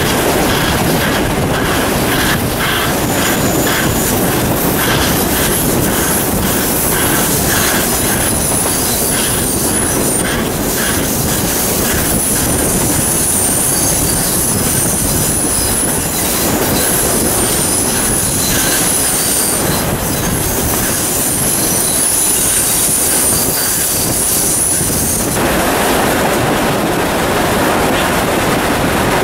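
Steel carriages of a steam-hauled heritage train running along the track, with a rhythmic beat in the first several seconds. From about eight seconds in until about twenty-five seconds in, the wheels squeal in high, wavering tones.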